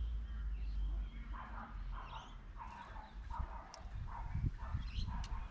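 A bird giving a series of short, harsh calls, about two a second, starting about a second in, over a low rumble.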